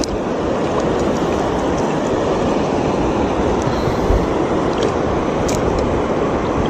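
Stream water rushing steadily over rocks, a constant even noise, with a few faint clicks in the middle.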